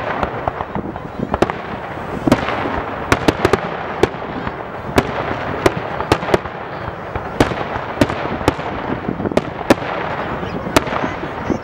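Aerial fireworks display: many sharp bangs of shells bursting at irregular intervals, sometimes several a second, over a continuous dense crackle.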